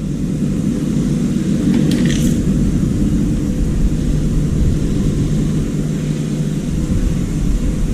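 Steady low rumble of machinery running, with a short hiss about two seconds in.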